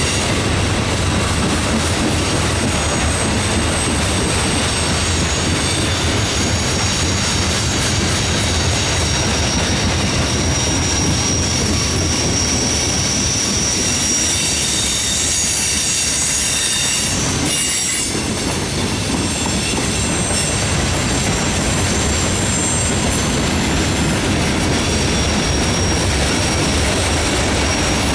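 Freight cars of a mixed freight train rolling past at speed: a steady rumble of wheels on rail with a high-pitched wheel squeal that comes and goes.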